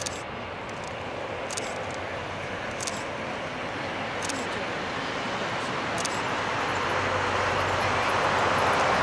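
Jet airliner on its landing approach, the noise of its engines growing steadily louder as it comes closer. Faint sharp clicks recur every second or two through the first part.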